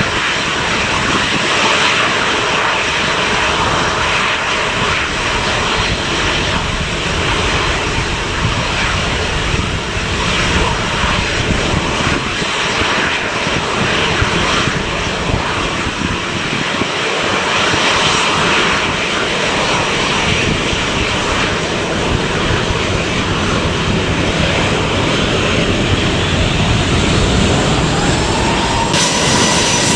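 A departing airliner's engines running loudly and steadily as a dense, even rush of noise. A rising whine comes in near the end and then holds steady.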